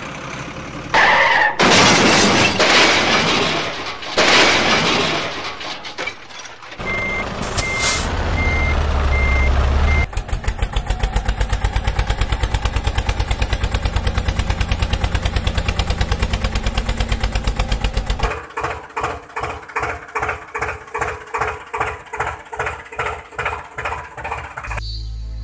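A sequence of truck sound effects. First a loud hissing rush lasting several seconds, then a reversing beeper beeping about twice a second over a low engine rumble. After that an engine chugs fast and evenly, slowing to a slower chug about two-thirds of the way in.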